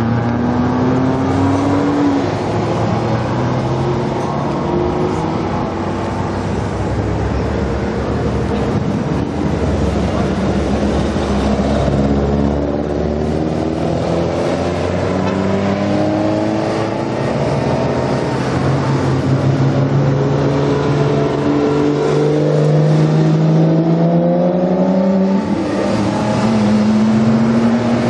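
Porsche sports cars pulling away past one after another, each engine note rising in pitch as the car accelerates. About halfway through, one is a classic air-cooled flat-six 911.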